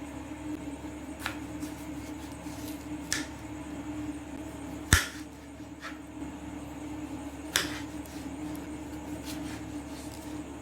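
Several short, sharp clicks and knocks, about five, the loudest about five seconds in, over a steady low hum.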